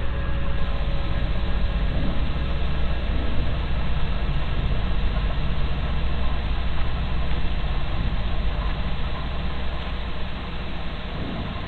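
A car engine idling steadily, a low rumble that eases off near the end.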